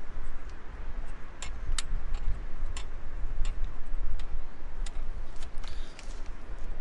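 Wood campfire crackling, with sharp pops at irregular intervals, about six in all, over a steady low rumble.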